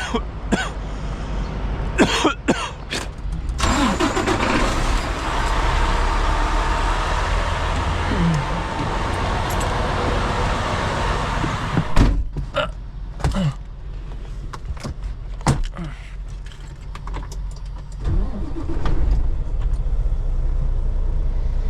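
A semi truck's engine runs steadily under scattered clicks and knocks. Two louder stretches of hiss-like noise come and go, the first about 4 seconds in and the second near the end.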